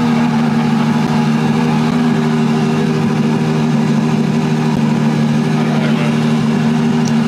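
Ferrari 812 Competizione's V12 engine idling steadily, just after being started.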